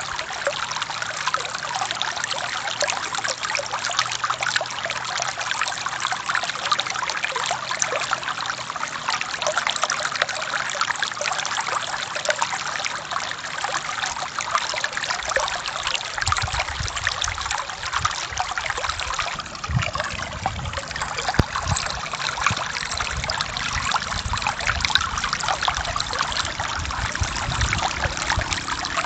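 Forest stream flowing over rocks, a steady trickling and splashing of running water. About halfway through, a deeper low rumble joins the flow.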